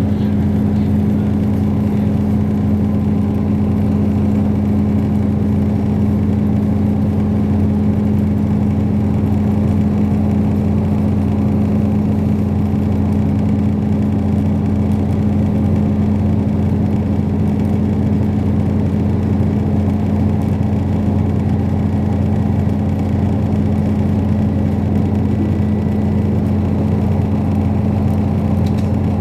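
Steady running noise of a Thai express passenger train heard from inside the coach: a constant low hum with a steady droning tone, unchanging throughout.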